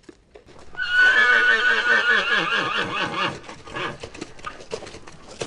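Horse whinnying: one long, quavering call of about two and a half seconds, followed by scattered knocks that fit hoofbeats.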